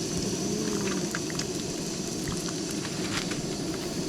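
Shad pieces frying in vegetable oil: a steady sizzle with scattered pops.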